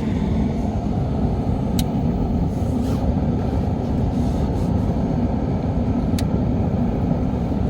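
A steady low rumble, with two sharp clicks about two seconds in and about six seconds in.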